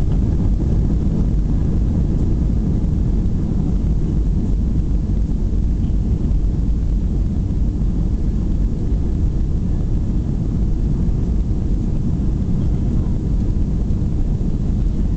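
Airbus A320 jet engine noise, a steady low rumble that holds level without rising or falling.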